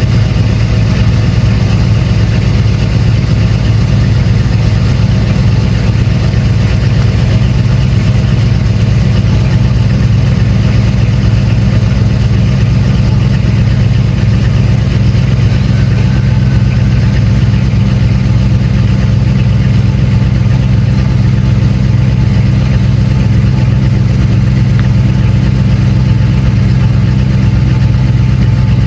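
1997 Dodge Ram 1500's 5.9-litre V8 idling steadily just after a cold start.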